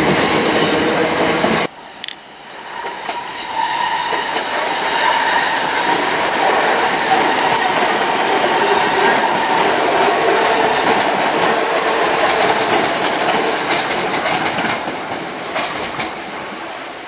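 Electric multiple-unit trains. First a departing train for under two seconds, then after a cut a Greater Anglia Class 321 electric train running past on the main line. Its steady rail rumble carries a thin tone, with rapid clicks over the rail joints late on, fading near the end.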